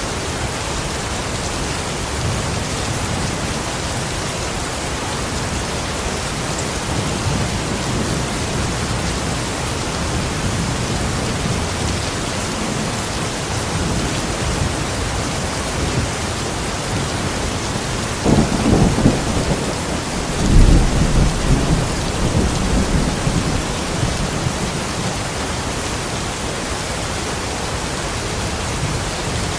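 Steady heavy rain, with a long roll of thunder rumbling in a little past halfway, loudest for a few seconds before fading back under the rain.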